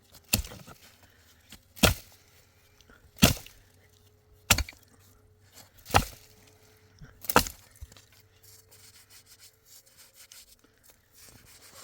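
Six heavy chopping strikes of a hand tool, about one every second and a half, then they stop.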